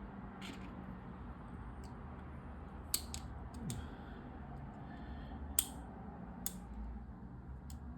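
Plastic LEGO pieces clicking and tapping as they are handled and pressed together: about seven separate sharp clicks, the loudest a little past halfway, over a faint low steady hum.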